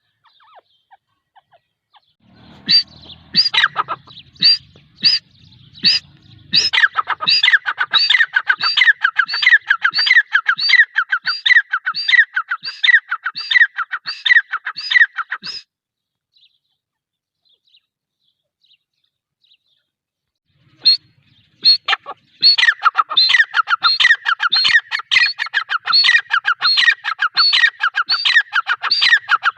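Grey francolin (teetar), given as a female, calling: a few spaced sharp notes, then a fast, even run of repeated notes. The calling stops for about five seconds and then starts again in a second run.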